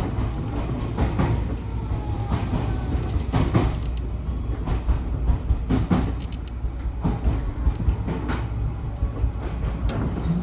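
Odakyu 1000 series electric train running, heard from inside the car: a steady low rumble with irregular clacks as the wheels pass over rail joints.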